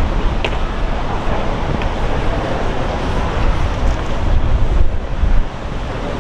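Wind buffeting the microphone: a steady rush with heavy, uneven low thumps of gusts, strongest about four to five seconds in.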